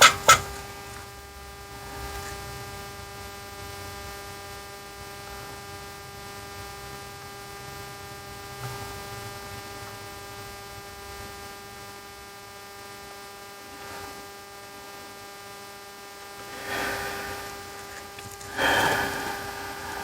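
Steady electrical mains hum made of several fixed tones, with a couple of sharp clicks right at the start and two short bursts of noise near the end.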